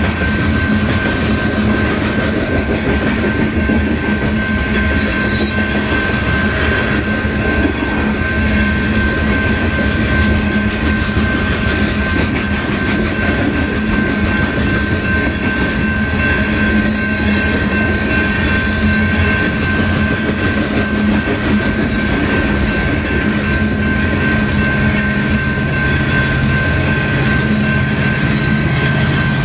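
Loaded coal cars of a long freight train rolling past, wheels clattering steadily over the rail joints, with a thin steady high tone over the noise. Near the end, the diesel engine of the rear distributed-power locomotive, an EMD SD70AH, rises in as it approaches.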